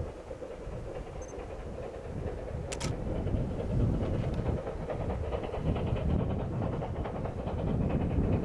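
A C2 narrow-gauge steam locomotive and its train running on the line. The rumble grows louder over the first few seconds, with one sharp click about three seconds in, followed by a quick, even clatter.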